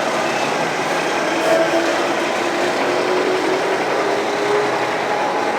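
Truck engines running steadily, with a faint engine tone slowly rising in pitch.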